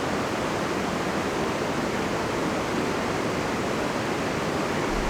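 River rapids rushing steadily, an even, unbroken wash of water noise.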